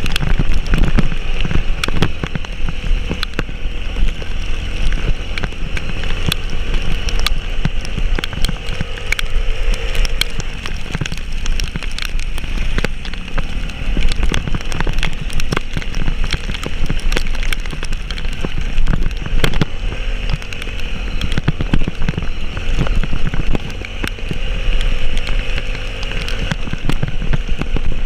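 A vehicle's engine running steadily as it travels, with heavy rain hitting it in many sharp ticks of drops.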